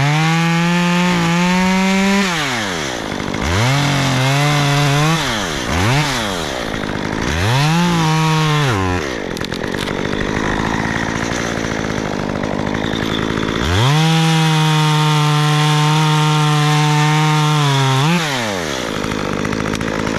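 Chainsaw engine revving up in several short bursts, then held at full throttle for about four seconds near the end before dropping back.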